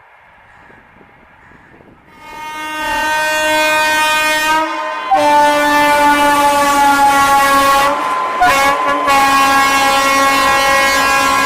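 Locomotive horn of an Indian Railways Shatabdi Express sounding long, loud blasts, starting about two seconds in, with two brief breaks; the pitch drops slightly after the first break.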